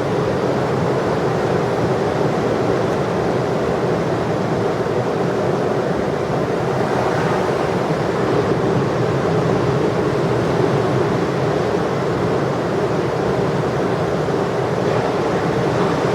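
Steady rushing noise of heavy ocean surf breaking.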